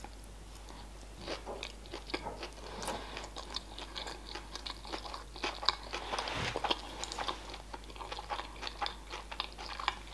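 Close-miked chewing of a mouthful of sushi roll: many small, wet mouth clicks.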